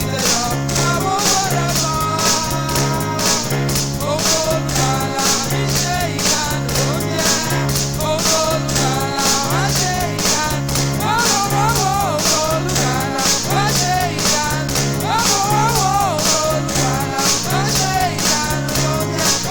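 Praise band music with a steady beat: a pulsing bass line and regular cymbal strokes under a wavering melody.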